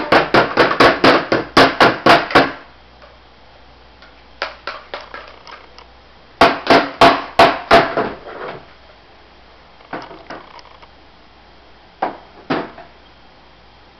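A small child hammering: bursts of quick hammer strikes, about four or five a second, broken by short pauses, with only a few scattered strikes near the end.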